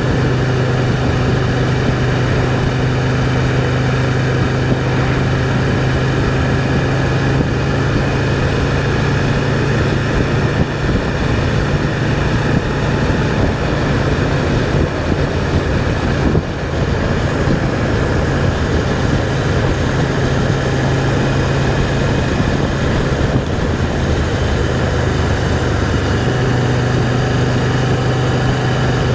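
Can-Am Spyder three-wheeled motorcycle's engine running steadily at cruising speed, with a constant low hum under heavy wind and road rush. The low note changes slightly near the end.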